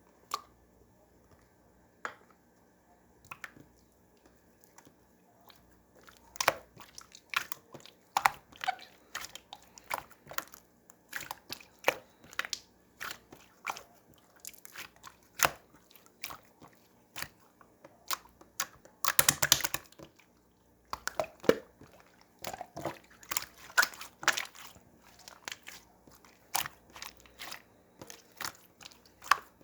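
Slime being pressed and folded by hand: sharp clicking and popping crackles, sparse at first, then coming thick and fast from about six seconds in, with a dense burst of crackling about two-thirds of the way through.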